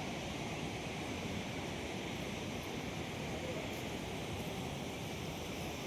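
Steady, unbroken rushing noise, even in level throughout.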